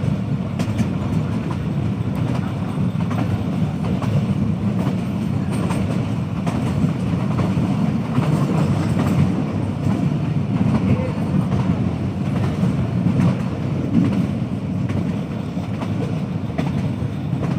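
Passenger train running along the track: a steady low rumble of wheels on rail with faint, irregular clicks.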